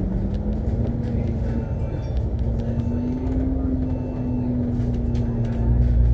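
Inside a moving Alexander Dennis Enviro500 MMC double-decker bus: a steady drivetrain whine over a low engine and road rumble. The whine rises a little in pitch and then holds, and the rumble grows louder near the end.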